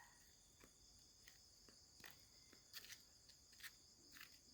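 Near silence, with faint insects, likely crickets, chirring steadily at a high pitch and a few faint ticks.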